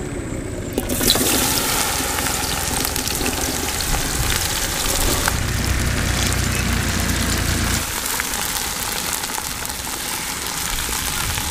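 Chopped okra sizzling in hot cooking oil in a steel karahi: the sizzle starts about a second in, as the pieces hit the oil, and goes on while they are stirred with a wooden spatula. A low rumble runs underneath and stops a few seconds before the end.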